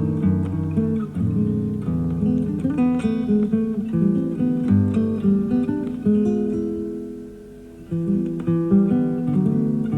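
Classical guitar played fingerstyle: plucked melody notes over bass notes and chords, with a held note dying away about seven seconds in before the playing picks up again. The sound is an FM broadcast recorded on cassette tape, dull in the treble.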